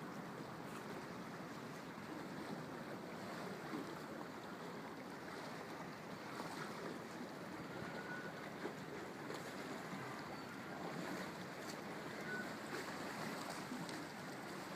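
Tidal river water washing and lapping, a steady rushing noise.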